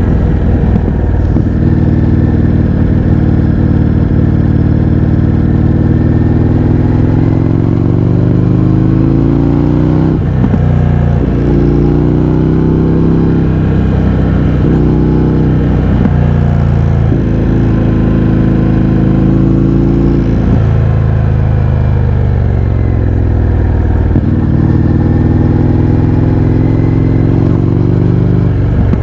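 Indian FTR 1200's liquid-cooled 60-degree V-twin running loud through an Akrapovič exhaust with the baffles removed, while the bike is ridden. The engine note climbs in pitch as it accelerates, dips sharply at the gear changes around 10 and 16 seconds in, and winds down as the throttle is rolled off near 20 and 24 seconds.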